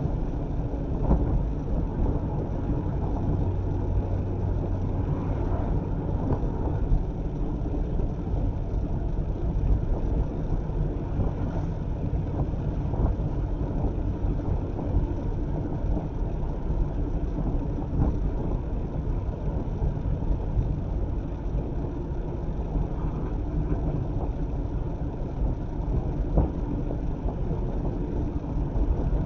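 Mazda MX-5 ND being driven along at a steady pace, its engine and tyre rumble droning evenly with a low engine hum underneath.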